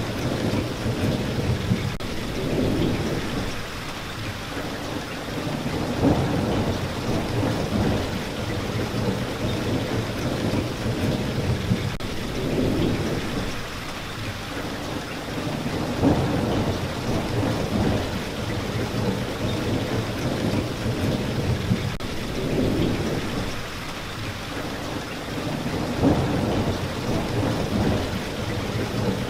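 Steady rain, with low rumbles swelling and fading every three to four seconds beneath it.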